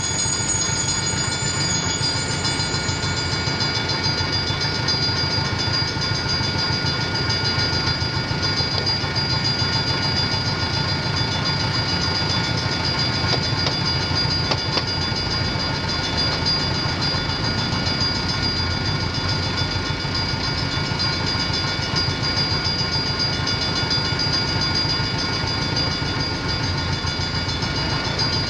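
Railroad crossing bells, Safetran mechanical bells and an Autotrol electronic bell, ringing steadily while a train hauled by a GR12w diesel locomotive rumbles over the crossing with a clickety-clack of wheels. A high wheel squeal fades out in the first few seconds.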